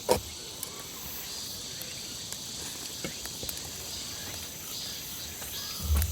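Insects chirping steadily in the woods, with a sharp click right at the start and a low bump near the end.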